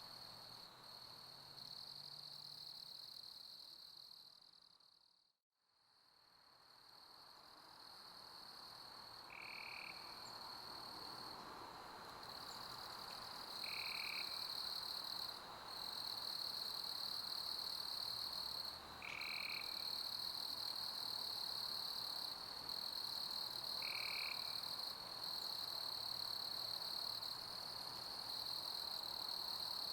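Crickets chirping in a steady high trill over a soft bed of pink noise. The sound fades out to silence about five seconds in and fades back up, and a short, slightly lower call repeats about every five seconds.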